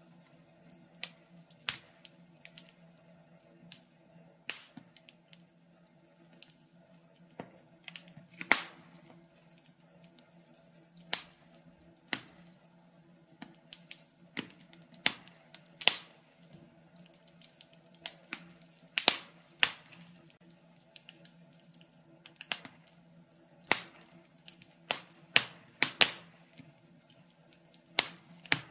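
Fireplace fire crackling: irregular sharp pops and snaps, one every second or so, a few much louder than the rest, over a faint steady hum.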